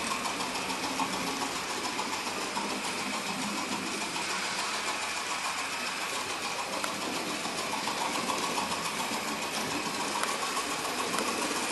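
Hornby B12 OO gauge model steam locomotive running at speed around a layout. It makes a steady mechanical running sound with quick, regular clicking.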